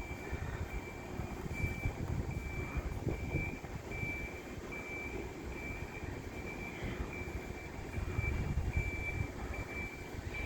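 A high electronic beep repeating evenly, about three beeps every two seconds, over the low rumble and hum of a railway station platform with a train standing at it.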